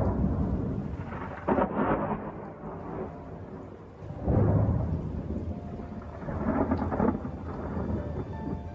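Thunderstorm: steady rain with thunder, a sudden crack and rolling rumble about a second and a half in, another louder one around four seconds in, and a softer roll near seven seconds.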